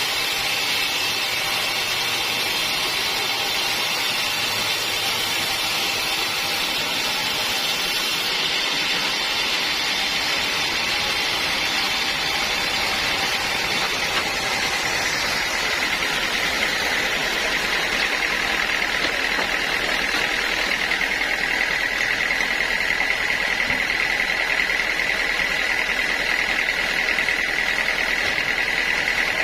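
Sawmill saw running steadily while sawing teak wood, with a steady high whine coming up about halfway through.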